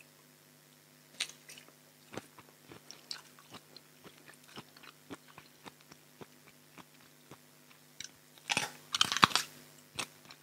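Close-up eating sounds: soft, wet chewing clicks from a mouthful of spicy raw shrimp salad. Near the end comes a cluster of loud, crisp crunches as a raw round Thai eggplant is bitten into, then single crunches about once a second as it is chewed.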